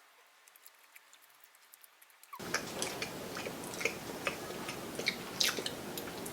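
Near silence for about the first two seconds, then close-miked chewing with frequent short wet clicks and smacks of the mouth.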